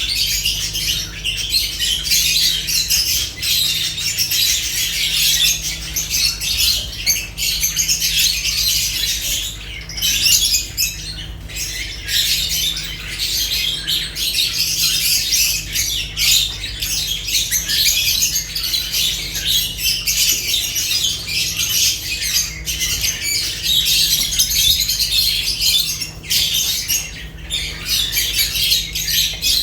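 Lovebirds chattering and squawking nonstop in a dense, high-pitched jumble, over a steady low hum.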